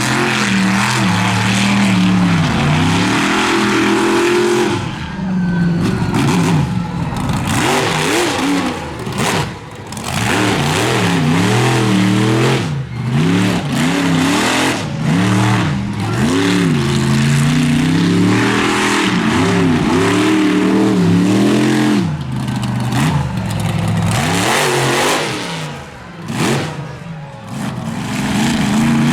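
Monster truck engine revving hard and repeatedly, its pitch climbing and falling again and again as the throttle is worked, with a few brief drops where the driver lifts off.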